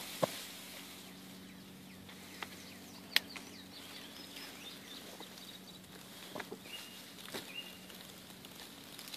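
Faint outdoor backyard ambience: a steady low hum under short, high bird chirps, with a few sharp clicks, the loudest about three seconds in.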